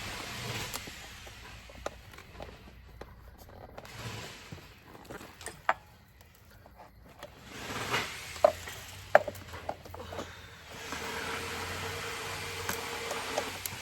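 Child car seat being handled and reassembled: fabric cover rustling with a few sharp plastic clicks, two loud ones about halfway through.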